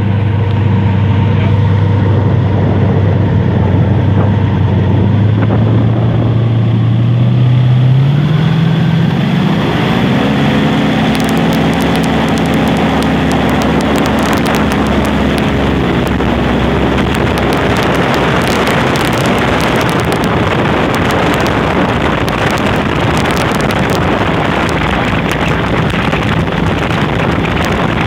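Airboat engine and propeller running steadily, then revving up about eight seconds in as the boat picks up speed; from then on the rush of wind on the microphone covers much of the engine.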